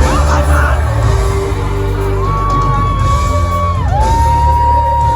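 Loud live pop concert music with a heavy bass beat, a singer holding two long notes that slide at their ends, and the crowd whooping.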